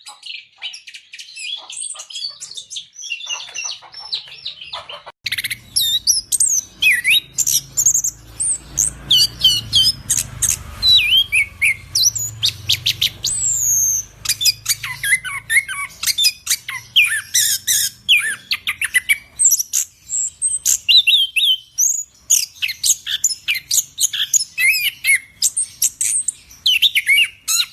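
Chestnut-capped thrush singing a rapid, continuous song of varied whistles, trills and chirps. About five seconds in the song turns louder, with a low hum beneath for several seconds.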